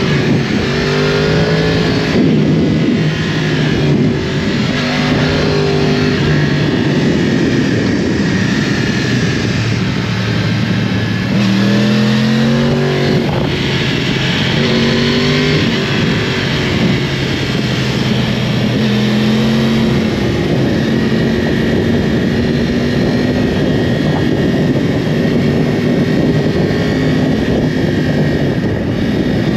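2012 Yamaha YZF-R1 sport bike's crossplane inline-four engine running at speed on the road. About halfway through the pitch climbs in a few quick steps, then holds steady.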